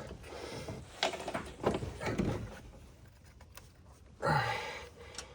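Ignition coil pack connectors being unclipped and the coil packs handled on a Dodge Ram's 3.6 V6: a few sharp plastic clicks and knocks in the first half. A short grunt about four seconds in.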